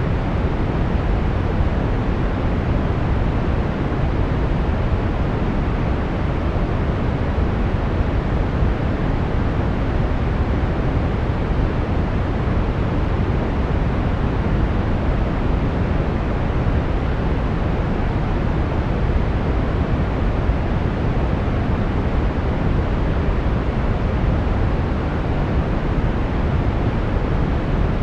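Brown noise: a steady, even rumbling hiss, heaviest in the bass and falling away toward the treble, with no change throughout.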